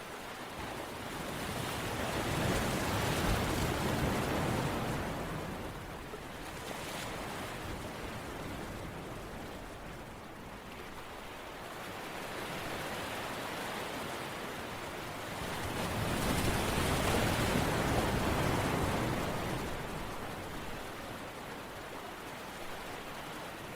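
Ocean waves washing in, two slow surges of surf that rise and fall back.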